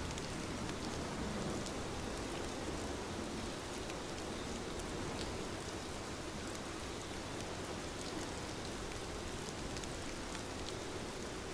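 Steady soft rain falling, an even hiss with scattered individual drops ticking on a surface.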